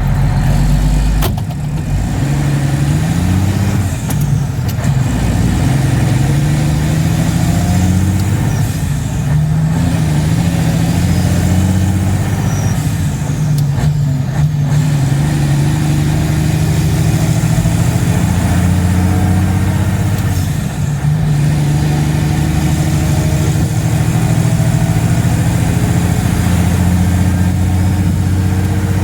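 Mack Superliner dump truck's diesel engine running, its pitch rising and falling several times, then holding steady for the second half.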